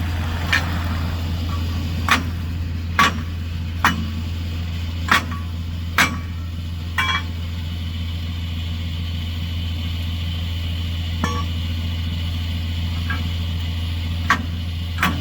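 Hammer blows on a rusted, seized part of a flat-deck tow truck's deck. The metal rings after each strike, about one a second at first and then a few more spaced out. A vehicle engine runs steadily underneath.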